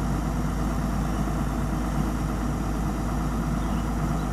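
Excavator's diesel engine running steadily, an even low drone with no change in speed.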